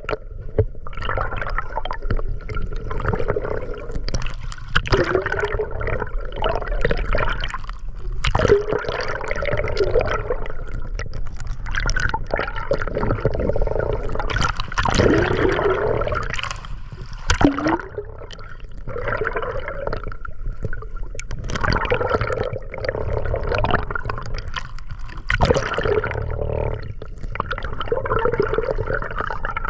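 Water sloshing and gurgling in uneven surges, with sharp splashes now and then.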